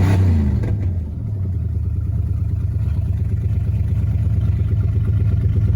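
Chrysler 5.2 L (318) Magnum V8 running on open exhaust manifolds with no exhaust pipes. The revs fall away just after the start and settle into a loud, steady idle with a pulsing low note.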